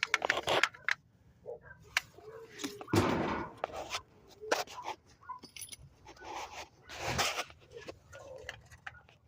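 Scattered metallic clinks and scrapes of wheel-bearing and hub parts being handled, with two short louder scraping bursts about three and seven seconds in.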